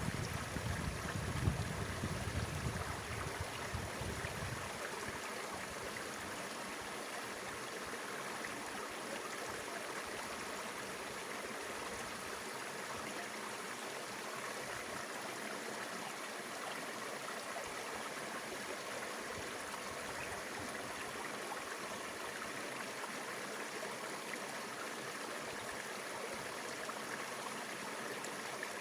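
Mountain river flowing: steady rushing water. A low rumble with a sharp knock sits under it in the first few seconds.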